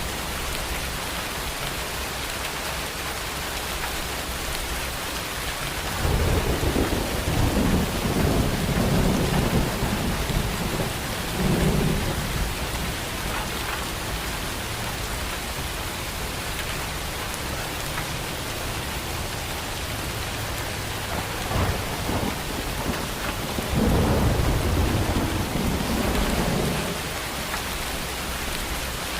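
Steady heavy rain falling, with rolling thunder rumbling three times: a long roll about six seconds in lasting several seconds, a short one near twelve seconds, and another long roll about twenty-four seconds in.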